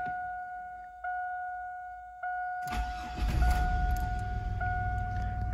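The 2004 Chevy Blazer's 4.3-litre V6 is started: about two and a half seconds in it turns over and catches, then runs. Under it, the dashboard warning chime rings again about every 1.2 s.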